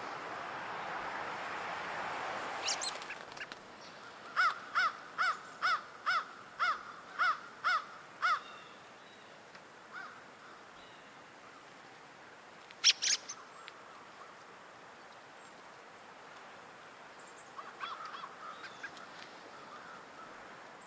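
A bird calling a run of about nine evenly spaced notes, about two a second, with a few shorter sharp calls later on. Wind noise is heard in the first few seconds.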